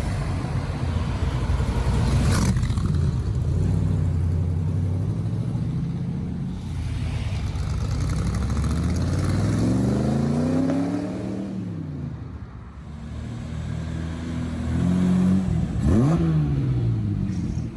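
The engine of an AC Cobra-style roadster runs with a steady low note, then is revved up in one long climb and let fall back about halfway through. Near the end an engine is blipped once, sharply up and down.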